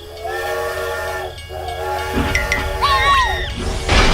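A whistle or horn sounds two long, held, chord-like blasts, followed by falling, sliding whistle tones, with a low rumble coming in about halfway.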